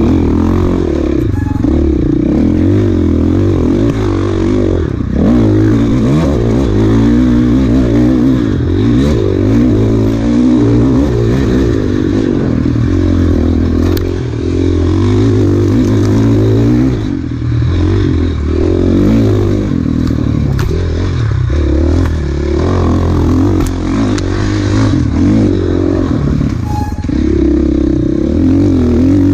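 Enduro dirt bike engine running hard in a race, its pitch rising and falling continuously as the throttle is opened and closed, with a few brief drops in loudness.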